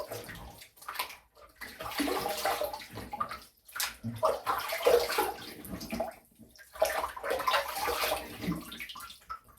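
Water splashing at a basin in several bursts of a second or two with short gaps: rinsing up after a double-edge razor shave.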